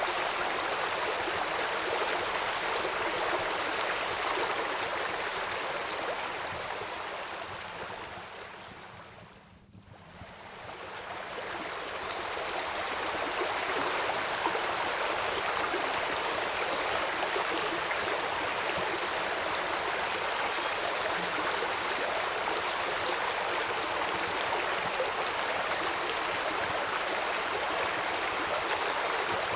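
River water flowing steadily as an even rushing hiss. About ten seconds in it fades down almost to silence and swells back up.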